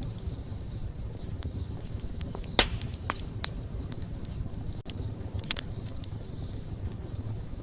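Wood fire burning with a low steady rumble and scattered sharp crackles and pops, the loudest pop about two and a half seconds in.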